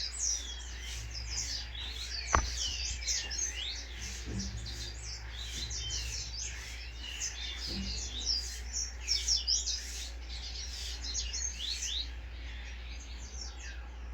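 Caged songbirds chirping, many short overlapping chirps and quick whistled glides, over a steady low hum. One sharp click sounds about two seconds in.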